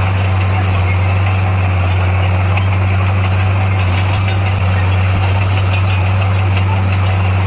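Heavy diesel engine of earthmoving equipment running steadily at an even, low drone with no change in speed.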